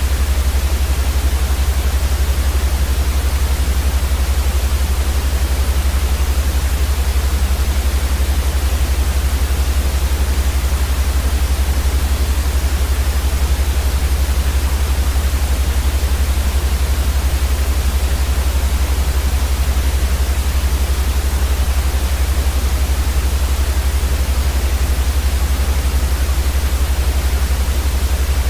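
Steady white noise for sleep: an even, unchanging hiss across the whole range with a much stronger low rumble underneath.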